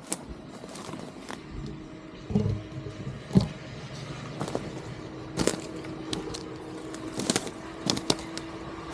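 Irregular crunching steps through dry vegetation, with a steady low engine hum from a distant machine throughout.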